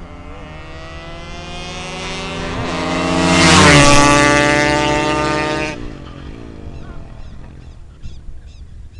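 Yamaha RD 135 two-stroke and Honda Titan 150 motorcycles accelerating flat out in a drag race. The engine pitch climbs and then dips with each gear change. They grow louder to a peak about four seconds in as they pass, then fall away sharply.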